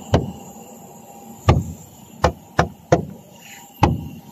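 Six sharp knocks at uneven intervals, the sound of hard objects striking.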